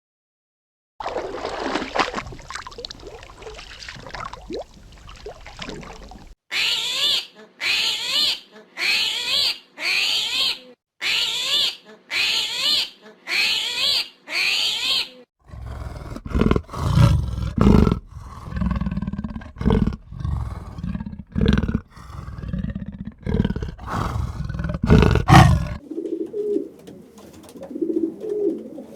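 A run of different animal sounds: first a short stretch of calls, then eight loud, high calls about one a second, then a big cat's roars and growls, the loudest part. Near the end this gives way to soft cooing.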